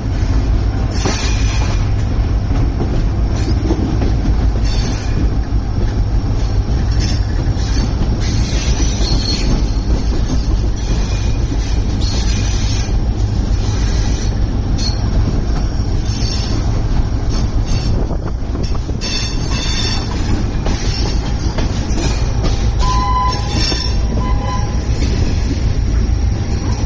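Passenger train running on the rails: a steady heavy rumble, with high-pitched wheel squeals coming and going and occasional rail clatter.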